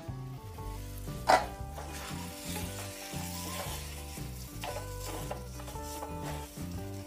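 Chicken pieces in ghee and spice masala sizzling in a non-stick kadai as they are stirred and turned with a spatula, with one sharp knock about a second in. Soft background music runs underneath.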